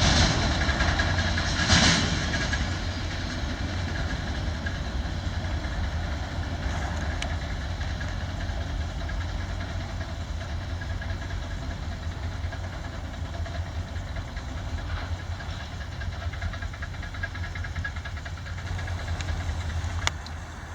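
CSX diesel freight train rumbling steadily on the rails, slowly easing in level, with a sharp clank about two seconds in. The sound drops off abruptly near the end.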